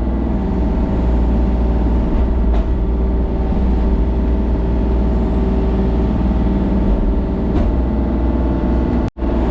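An engine running steadily, loud and even, cut off briefly by a sudden gap near the end before carrying on.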